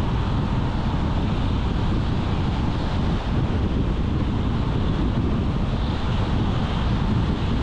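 Steady road noise of a car driving at speed: tyre roar and wind noise, even and unbroken.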